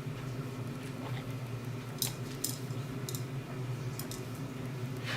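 Steady low room hum with a few faint, sharp clicks scattered through the middle.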